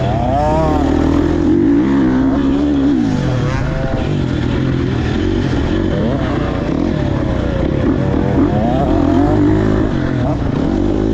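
Dirt bike engines running and revving, the pitch climbing and falling again and again, with more than one bike heard at once.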